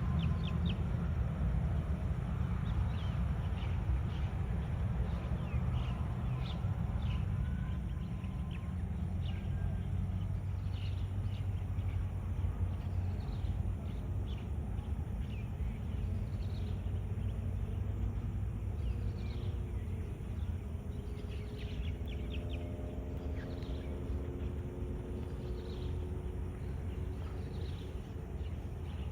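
Birds chirping over and over, short quick falling calls, above a steady low outdoor rumble. A faint steady drone comes in about two-thirds of the way through.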